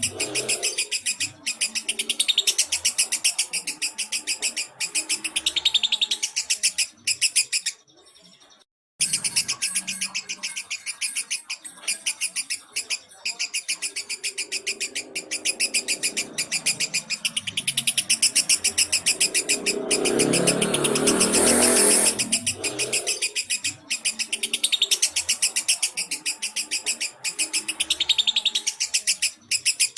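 Lovebird chirping in long, rapid runs of high chirps, with a brief break about eight seconds in.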